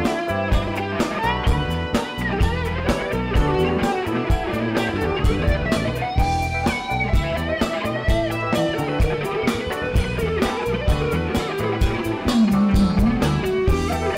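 Rock band music with no singing: a guitar plays a melodic line with bent notes over a steady drum beat.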